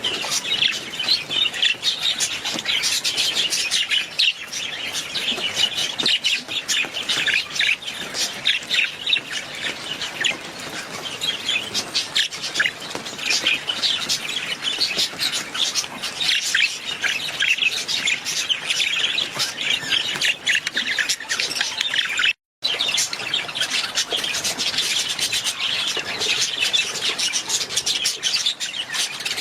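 Budgerigars chattering continuously, many short overlapping chirps and tweets, with a brief sudden cut to silence about two-thirds of the way through.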